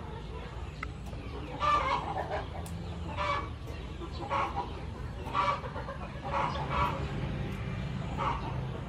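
A bird clucking repeatedly, a short call about every second, over faint snips of scissors cutting the tails off razor clams.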